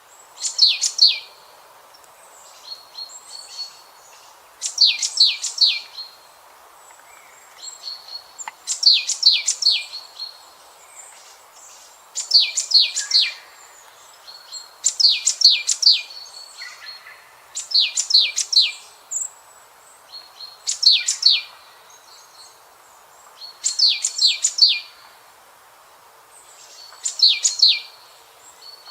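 A songbird repeating a short phrase of several rapid, sharp high notes about every three seconds, with softer calls in between, over a steady background hiss.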